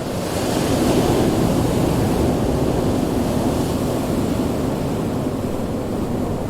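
Ocean surf: a wave breaks with a rushing swell about a second in, then washes out and slowly fades into steady low surf.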